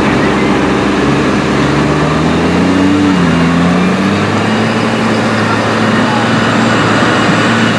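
Tractor engine running, its pitch rising and then dropping about three seconds in, then holding steady.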